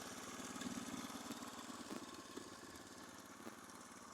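Orion-100 moped engine idling with a rapid, even putter that swells a little under a second in.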